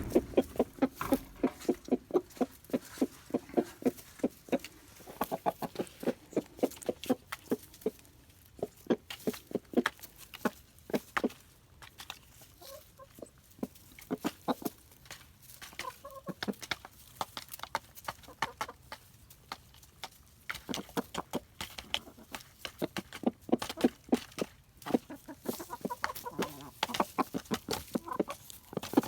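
Buff Orpington hens clucking in many short, quick clucks, busiest near the start and again toward the end, with a thinner stretch in the middle.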